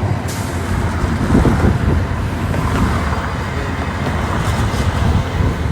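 Road traffic noise with wind rumbling on the microphone.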